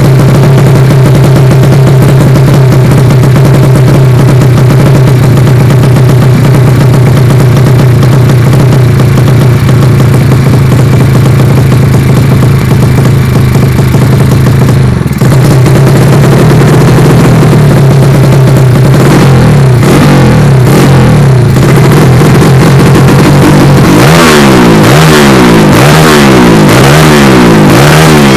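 Yamaha Vega motorcycle's single-cylinder four-stroke engine, tuned as a 185 cc "sleep engine", running loud at a steady idle for about fifteen seconds. A few throttle blips follow, then near the end a run of quick revs, about one a second, each rising and falling.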